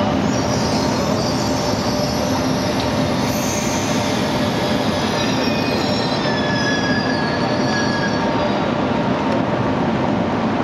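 Italo high-speed train moving slowly alongside the platform, its wheels squealing in thin high tones that come and go over a steady rumble.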